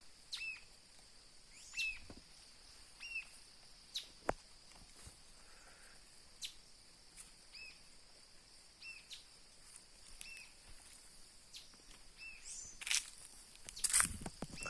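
A bird calling with short, arched chirps, repeated about once every second or so, over a steady high-pitched hiss. A few sharp knocks come near the end.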